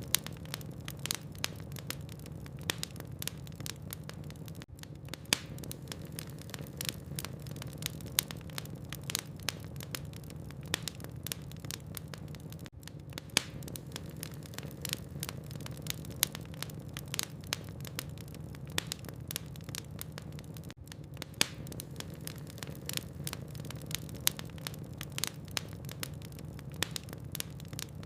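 Burning logs in a fireplace crackling: frequent irregular sharp pops and snaps over a steady low rumble of the fire.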